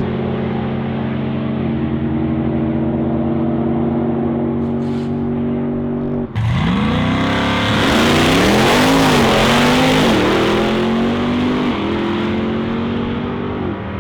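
A V8 drag car's engine held at steady revs, then launching about six seconds in. It turns loud, with engine pitch rising and dipping as it accelerates hard before settling back to a steady note.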